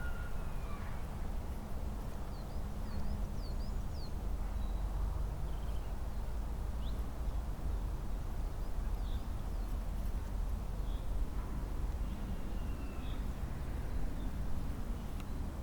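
Wild birds chirping: scattered short, high chirps and brief whistled calls, faint, over a steady low rumble.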